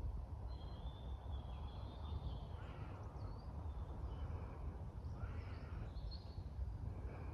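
Birds calling outdoors, several short high calls, some gliding in pitch, over a steady low rumble.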